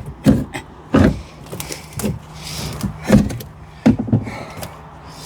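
Repeated heavy knocks and thuds, about one a second, of tools striking and prying at a boat's rotted wood to break it loose.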